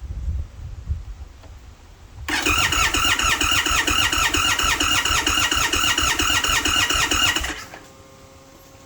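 Indian Sport Chief motorcycle's electric starter cranking the V-twin engine in a fast, even rhythm for about five seconds without it catching, typical of a hard start. A low rumble comes before the cranking, which then stops abruptly.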